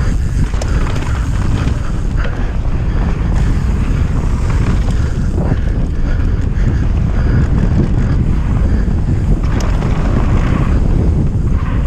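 Wind buffeting the microphone of a GoPro on a mountain bike descending a trail at speed: a steady, dense rumble with a few sharp knocks from the bike scattered through.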